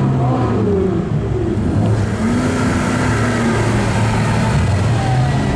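Sports car engines running, with revs rising and falling several times over a steady low engine hum.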